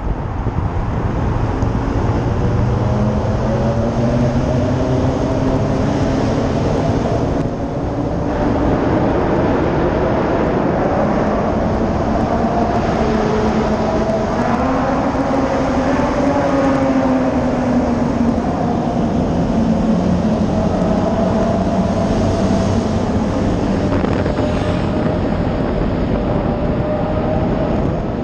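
Dodge Scat Pack's V8 engine and exhaust revving up and easing off while driving, its pitch rising and falling several times, over steady road and wind noise.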